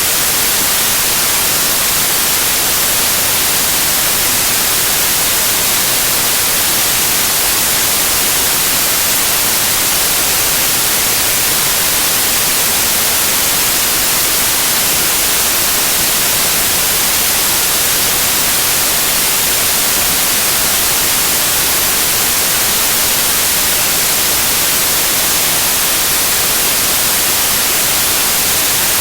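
Loud, steady white noise: an even, unbroken hiss across all pitches, strongest in the highs.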